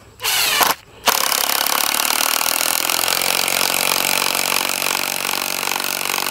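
Impact driver running: a short blip, then from about a second in a continuous hammering buzz as it drives a fastener home.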